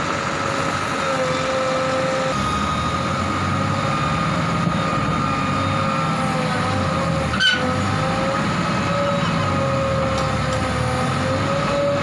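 JCB 3DX backhoe loader at work: its diesel engine runs under a steady, slightly wavering whine. The engine note grows heavier about two seconds in, and there is a single sharp knock about seven and a half seconds in.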